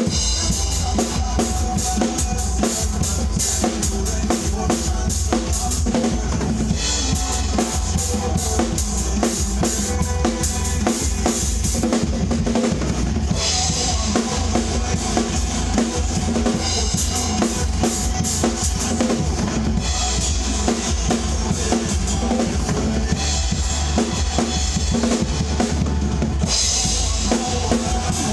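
Full acoustic drum kit played through a song section, with heavy bass drum, snare and rimshot hits. Cymbals wash in and out in stretches of a few seconds over a musical backing.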